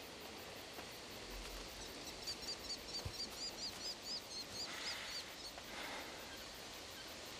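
A bird calling a quick run of short, high, arched notes, about four a second, for a few seconds, over a faint steady hiss of outdoor night ambience.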